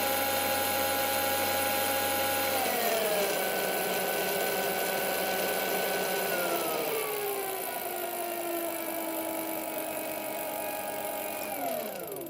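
Bafang BBSHD mid-drive motor with its stock nylon primary gear, running unloaded at full throttle on 72 V with a steady gear whine. The whine drops in pitch twice as the speed eases, then falls away as the motor spins down near the end.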